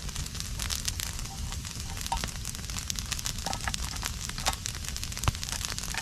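Campfire crackling, with many irregular sharp pops over a steady low rumble.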